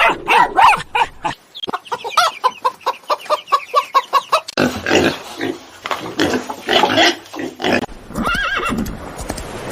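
Farm animals calling. A quick run of short, high squeals comes first, then rougher, noisier grunts and squeals, and a single rising-and-falling call near the end.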